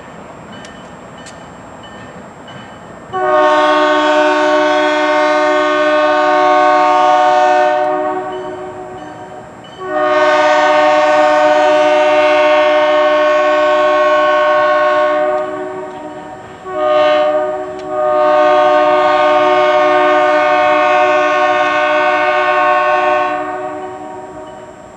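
GMD GP40-2LW diesel locomotive's multi-note horn sounding a chord in four blasts, long, long, short, long: the standard grade-crossing signal.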